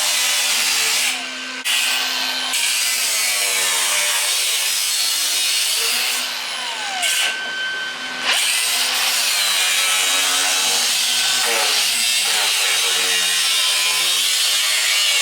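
Power tool grinding or cutting the truck's rusted sheet metal, most like an angle grinder, its whine shifting in pitch as the load changes. It lets off briefly about a second in and again around seven seconds in, then bites again.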